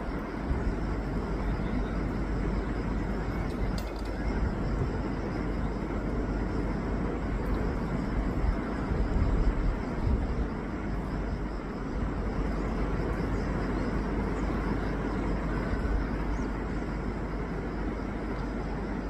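Wind blowing over the microphone: a steady, rumbling rush with deep buffeting that swells and eases a little.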